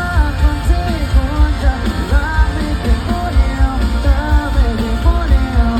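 Live pop-rock band performance with singing over a strong, steady beat.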